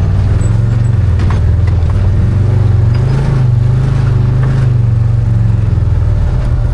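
Arctic Cat Wildcat 1000 side-by-side's V-twin engine running steadily, rising a little in pitch around the middle and easing off again, with a few light knocks from the machine.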